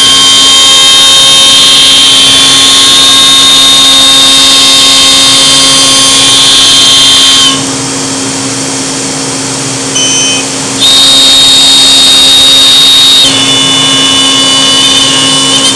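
CNC router spindle running at speed and cutting, a loud steady high-pitched whine over a constant hum. About seven and a half seconds in, the whine and cutting noise drop away for about three seconds, then come back.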